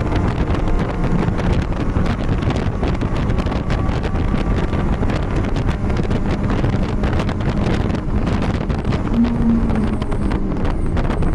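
BMW race car heard from inside at racing speed: the engine running hard under wind buffeting on the microphone, with many short rattles and knocks throughout.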